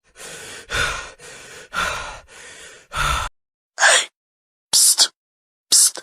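Sound effect of a person breathing hard: three breaths, each a softer intake followed by a louder, gasping breath out. These are followed by three short separate effect bursts about a second apart, the first one falling in pitch.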